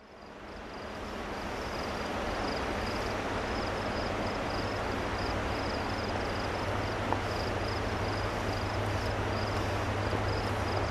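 Steady rushing noise with a low hum that grows slightly stronger partway through: the distant rumble of an approaching freight train. A faint high chirp repeats about twice a second above it.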